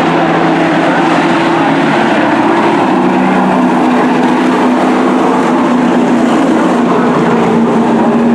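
Race trucks' engines running at speed around a short oval track: several engine notes overlapping in a steady, loud drone.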